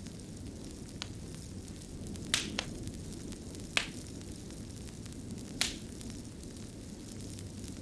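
Fire burning with a steady low rush, broken by sharp crackles and pops, five in all and two of them in quick succession.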